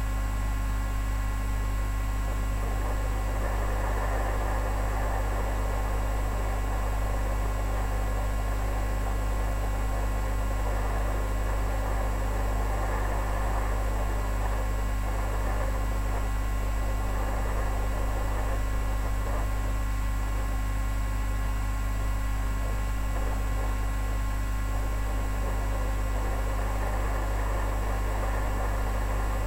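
Steady electrical mains hum with constant hiss, unchanging throughout.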